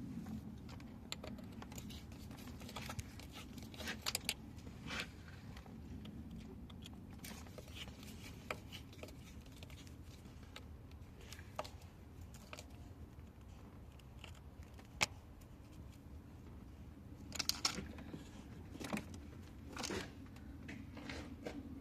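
Scattered clicks, clinks and rattles of hand work with tools and small parts, with a sharper knock about 15 seconds in and a cluster of rattles near the end, over a low steady hum.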